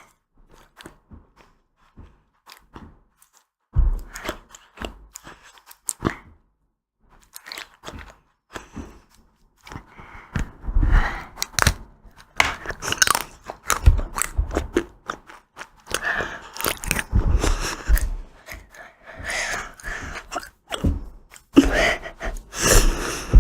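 Ice cream being bitten and chewed, with crunchy bites and wet chewing. It is faint with only small clicks for the first few seconds, then comes in irregular, dense bouts for the rest.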